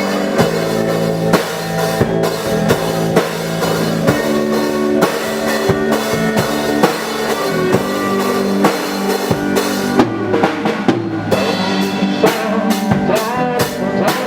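Live band playing an instrumental passage, with the drum kit's bass drum and snare hits standing out over pitched instruments.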